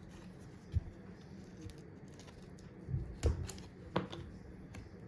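Scattered clicks and taps of small tools and phone parts being handled on a work surface while an iPhone is opened: one sharp tap about a second in, and a few more in the second half.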